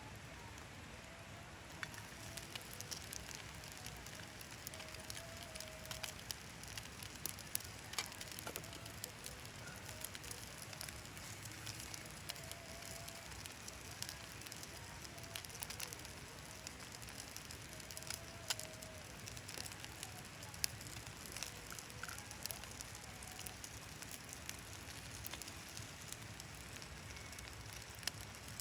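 Wood fire burning in a Picogrill portable fire pit: a steady soft hiss with sharp crackles and pops at irregular moments, a few of them louder.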